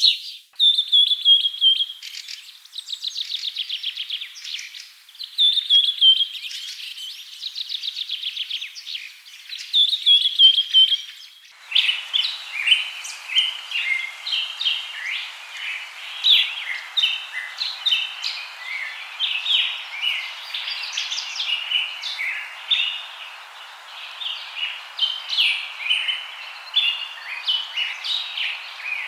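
Birds singing: a repeated trilled phrase for the first third, then an abrupt switch to a dense chorus of many birds calling over a steady hiss.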